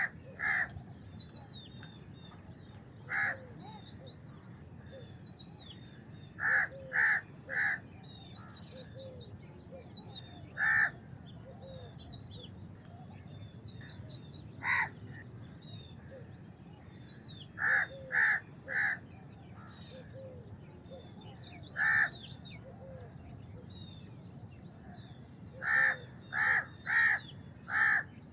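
House crows cawing: single caws and quick runs of two to four, spaced a few seconds apart, with small birds chirping high and thin throughout.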